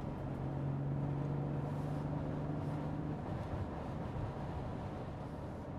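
Cabin sound of a BMW X3 M40i's turbocharged B58 inline-six, fitted with a 200-cell downpipe and OPF delete, cruising with a steady low engine hum over road noise. The hum fades about three seconds in, leaving mostly tyre and wind noise.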